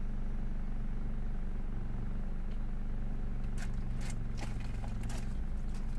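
Vauxhall Astra J 1.6 four-cylinder petrol engine idling steadily at running temperature, running lean from unmetered air leaking in after the airflow meter. A few short, sharp sounds come in the second half.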